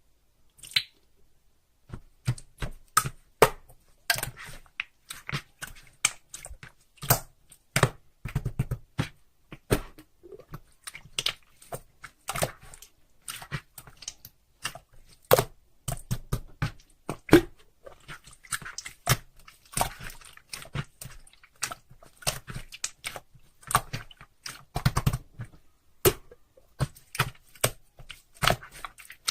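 Slime being squeezed and poked by hand, giving irregular sticky clicks and pops, a few a second.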